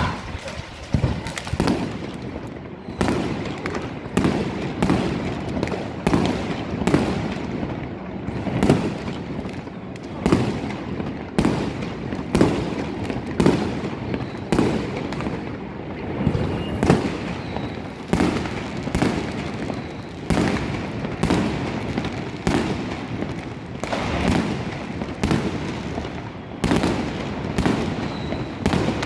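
Aerial fireworks shells bursting in a steady barrage, sharp bangs about one to two a second with a continuous crackle between them.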